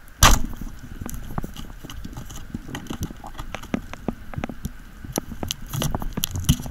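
Underwater speargun shot about a quarter of a second in: one sharp, loud crack as the gun fires and the shaft strikes a grouper. Then many quick clicks and knocks while the speared fish struggles on the shaft and line.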